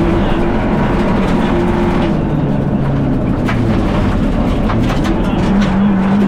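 Fiat Egea rally car's turbocharged 1.4 T-Jet four-cylinder engine under hard driving, heard from inside the cabin. The engine note falls away a little after halfway, then holds high and steady near the end, with a few sharp knocks from the car.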